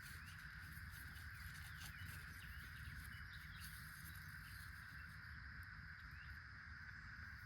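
Faint outdoor country ambience: a steady, even insect chorus with scattered short bird chirps.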